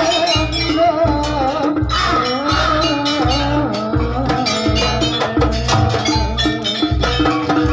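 Live traditional Javanese dance-troupe music: a steady low drumbeat about every half second, bright metallic percussion strikes, and a wavering, sliding melody line over them.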